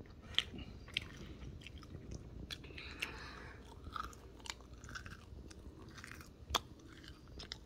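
A person chewing fries and chicken nuggets right at the microphone, with irregular crisp crunches as the food is bitten and chewed.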